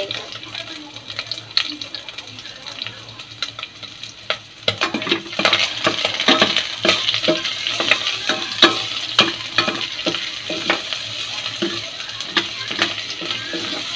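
Chopped onion, garlic and ginger frying and sizzling in rendered pork fat in a stainless steel pot, with a spatula stirring and clicking against the pot. The sizzle gets louder about five seconds in.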